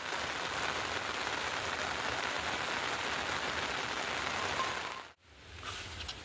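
Steady rain falling, a dense even hiss. About five seconds in it drops out for a moment and comes back quieter.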